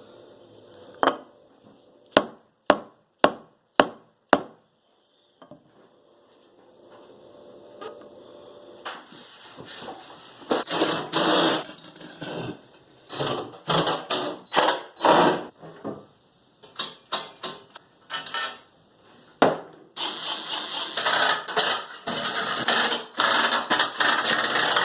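Hand tools working on a Powermatic table saw's metal parts during teardown: a few sharp separate clicks, then stretches of rapid metallic clattering and rattling that grow nearly continuous near the end.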